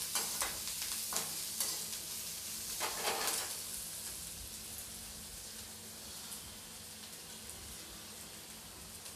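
Sliced onions, garlic and green chillies sizzling in a little oil in a kadhai, a slotted metal ladle scraping and stirring them with several short strokes in the first few seconds. The sizzle then carries on more faintly.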